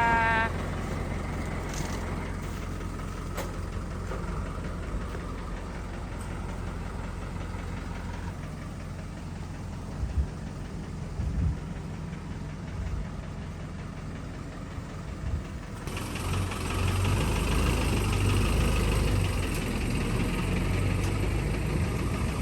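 Vehicle engine idling steadily, with the last reversing beeps at the very start; about sixteen seconds in the engine gets louder and fuller.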